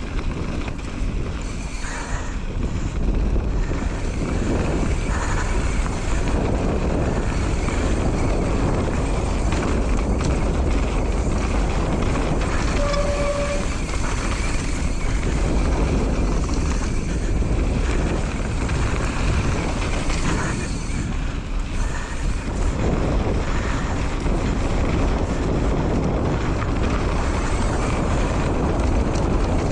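Mountain bike rolling down a dirt trail: a steady rumble of tyres on the ground with the rattle and knocks of the bike over the bumps.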